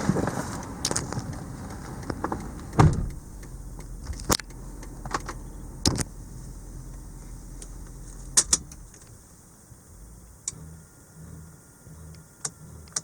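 A low car engine rumble that fades off through the first half, with a series of sharp clicks and knocks a second or more apart; the loudest knock comes about three seconds in.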